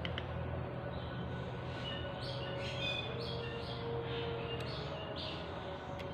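Small birds chirping a few times in the background over a steady low hum, with a few faint clicks.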